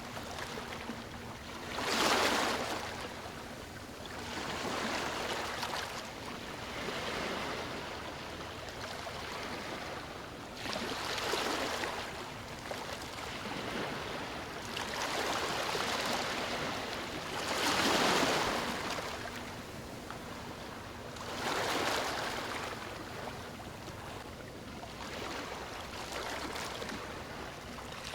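Sea waves washing onto a shore. The rush of water swells and ebbs every few seconds.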